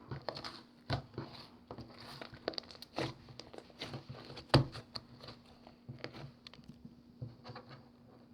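Slime being squished and pressed by hand, giving many crackling clicks and small air-bubble pops, with the loudest pop about four and a half seconds in.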